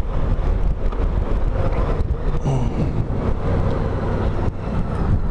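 2012 Honda Goldwing's flat-six engine running at road speed with wind and road noise, heard through a microphone inside a full-face helmet; the engine pitch shifts briefly about halfway through.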